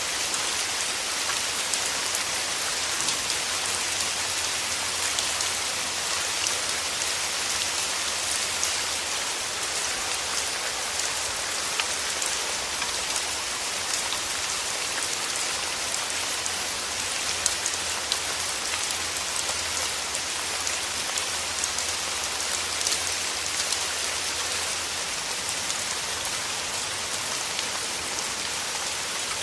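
Steady rain falling: an even hiss thick with small, close drop ticks, over a faint low rumble.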